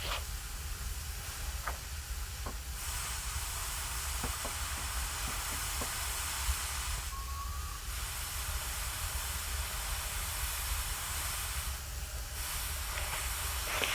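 Strong wind blowing over the microphone: a steady low rumble under a high hiss that dips briefly a few times as the gusts ease.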